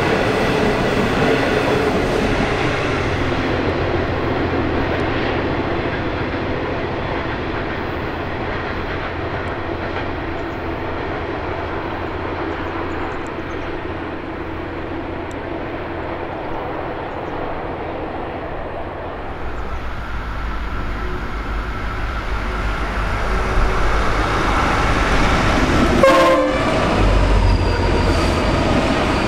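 A passenger train's carriages run past on the rails and fade into the distance. From about two-thirds of the way in, a Pacific National AN class diesel locomotive hauling a freight train approaches with a deep engine rumble that grows louder as it passes close near the end. There is a brief sharp sound shortly before it arrives.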